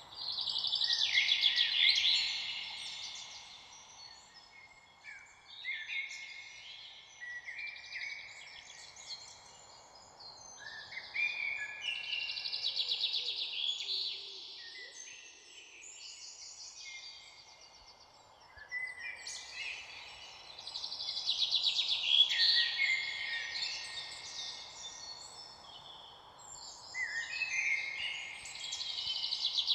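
Songbirds singing in bouts of quick, busy, overlapping phrases every few seconds, over a faint steady background hiss.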